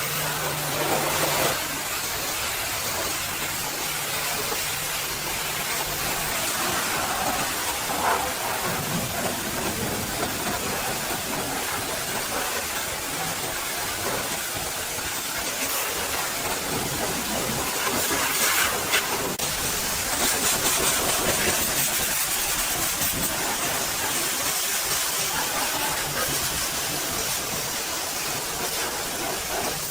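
High-pressure water spray from a pressure washer hitting a mud- and ice-caked truck: a steady hiss that swells louder for a few seconds past the middle, with a low hum under it for the first several seconds.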